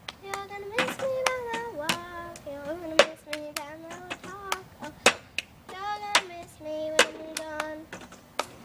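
A high voice singing a simple tune in held notes, with sharp hand claps about once a second.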